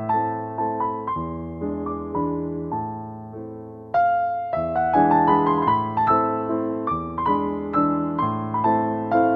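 Slow, soft piano music: single notes and chords struck one after another, each ringing out and fading, with a new phrase starting loudly about four seconds in.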